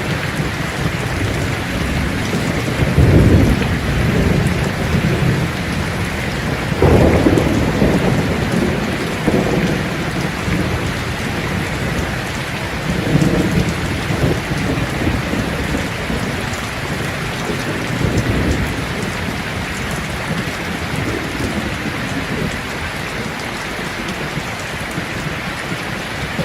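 Steady rain falling, with low rumbles of thunder swelling up about four times; the strongest rumbles come a few seconds in and again a few seconds later.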